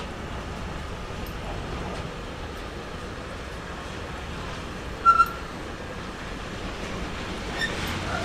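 A train running through a railway station, giving a steady rumble and hiss. About five seconds in there is a brief, sharp, high-pitched squeal in two quick peaks, with a fainter one near the end.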